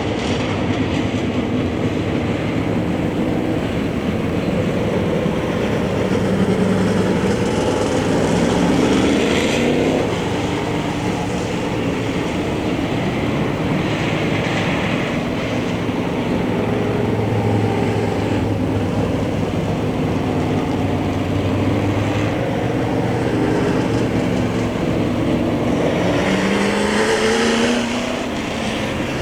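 Dirt-track race car engines running warm-up laps, the pitch rising and falling repeatedly as cars accelerate and pass, with the loudest passes about nine seconds in and near the end.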